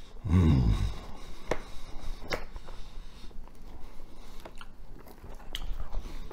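A man chewing a mouthful of pizza, with wet mouth clicks and smacks scattered through. Near the start comes a short hum from his closed mouth.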